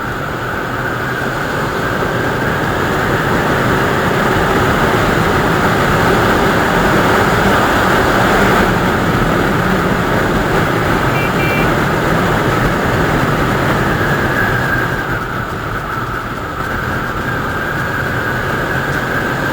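Motorcycle riding along, heard as heavy wind rush over the microphone with engine noise beneath; it grows louder over the first several seconds, then eases a little.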